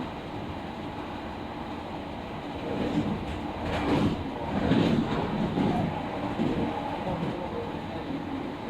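Train running on the rails, heard on board, with a steady rumble. The rumble grows louder and rattles over the track for a few seconds in the middle.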